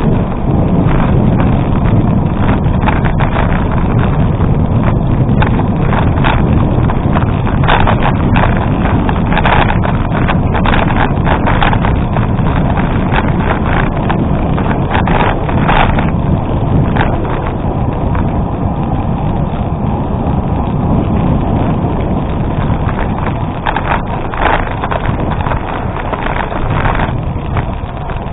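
Bicycle tyres rolling over a gravel road, with wind buffeting the microphone: a steady low rumble studded with many small clicks and rattles from stones and the bike.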